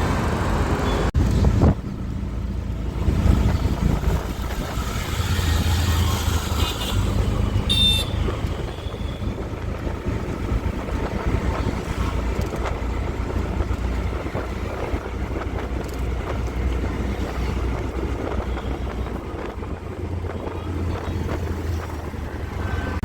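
Steady low rumble of a motor vehicle running, with a brief high squeak about eight seconds in.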